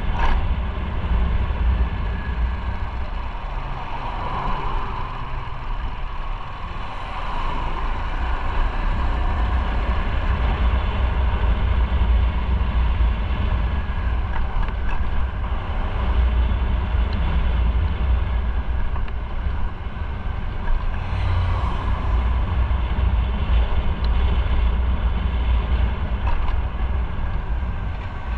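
Motorcycle engine running steadily while riding on the road, with a heavy low rumble of wind on the microphone.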